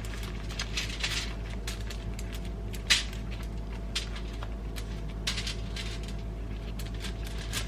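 Light kitchen handling sounds: scattered small clicks, taps and rustles, with one sharper clack about three seconds in, over a steady low hum.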